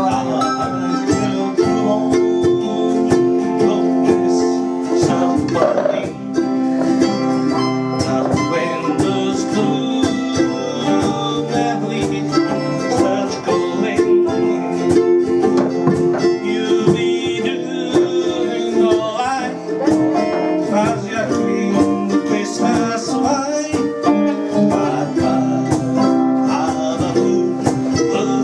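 Live acoustic music, plucked string instruments picking a slow song with held notes, with a singing voice in places.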